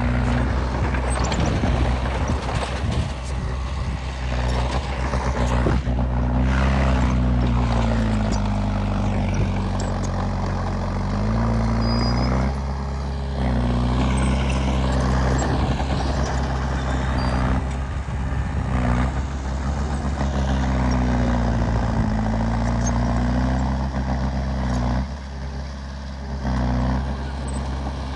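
Komatsu D20P bulldozer's diesel engine working under load, its pitch dipping and recovering several times as it pushes soil, with clanking throughout.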